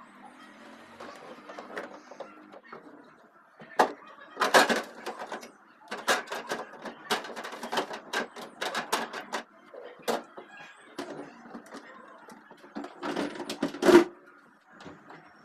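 Clattering and knocking of items being handled while a refrigerator is cleaned, in irregular bursts: one cluster about four seconds in, a long run through the middle, and a last loud clatter near the end.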